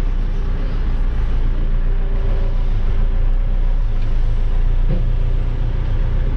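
Caterpillar backhoe loader's diesel engine running steadily as the machine drives along the road, a continuous low drone with no brake squeal.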